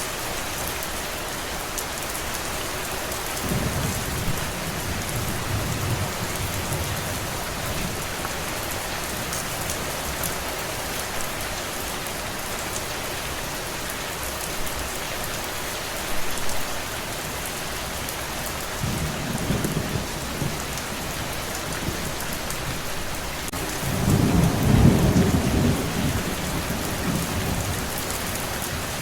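Steady rain falling, with three low rolls of thunder: one a few seconds in, one about two-thirds through, and the loudest near the end.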